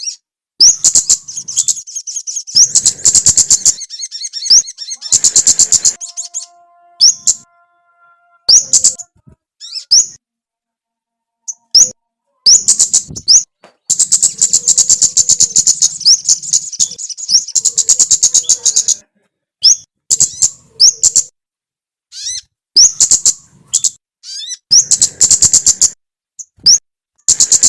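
A small songbird singing loud, high, sharp chirps and rapid trills in bursts of a few seconds, with abrupt silent gaps between them.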